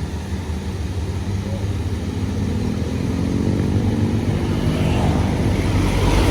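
Medium tour bus's diesel engine, a low steady drone that grows louder and climbs slightly in pitch through the second half as the bus draws nearer.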